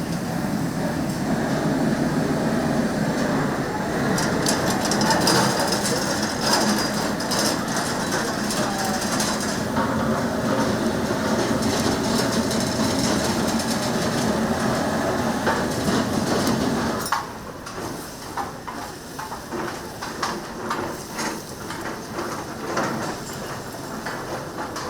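Restaurant kitchen cooking noise: a dense, steady rushing with clanks and clatter of metal utensils and pans. About two-thirds of the way in it drops suddenly to quieter, scattered clatter.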